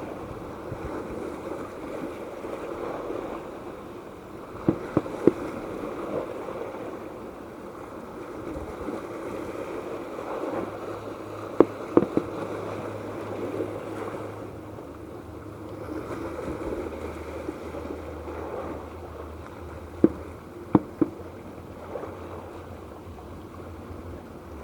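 Fireworks going off: sharp bangs in three small groups of two or three, over a steady noisy background.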